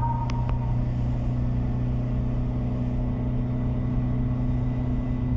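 Steady low hum of a running car engine, heard from inside the car, with two faint clicks about half a second in.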